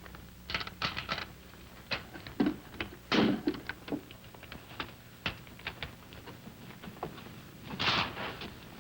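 A series of irregular sharp clicks and knocks, with a couple of short rustling scrapes about three seconds in and near the end.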